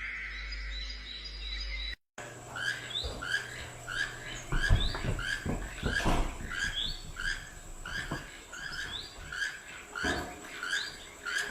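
A small bird chirping over and over, short rising chirps at about three a second, with a few low knocks mixed in. Before a sudden break about two seconds in, a sliding whistle-like tone is heard instead.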